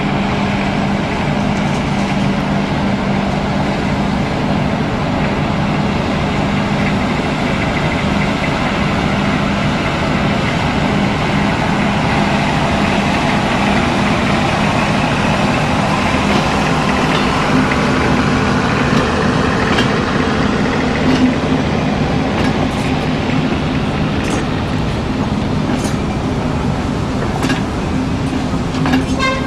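Steam-hauled passenger train rolling past, its wooden coaches giving a steady rumble, with a few sharp clicks from the wheels near the end.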